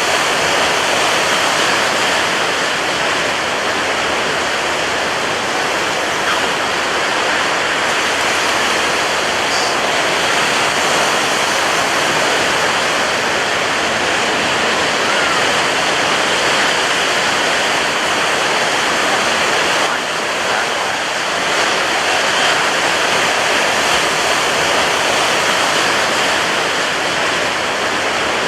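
Ocean surf breaking on a beach: a continuous, dense wash of crashing waves with hardly any rise and fall between breakers.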